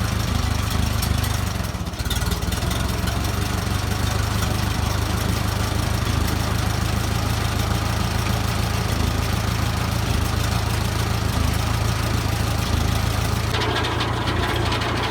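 Antique tractor engine running steadily, driving a Foley Belsaw M-14 circle sawmill with its newly fitted 48-inch blade spinning free during a test run; the blade is running unevenly at this speed. The sound gets brighter and hissier near the end.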